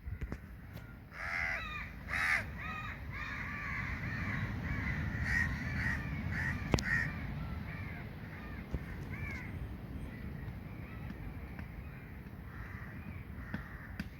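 Crows cawing over and over, a rapid string of harsh calls for most of the first ten seconds, then fading, over a steady low rumble.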